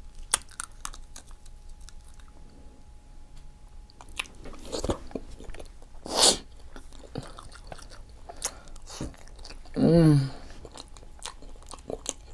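Close-miked mukbang chewing of seafood: wet smacks and clicks of the mouth at work, with one loud short burst about six seconds in. There is a brief hummed voice sound near ten seconds.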